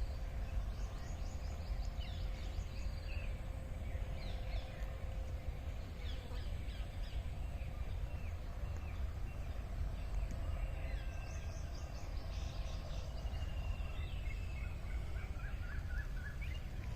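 Several wild birds chirping and calling on and off, short rising and falling notes, over a steady low rumble and a faint steady hum.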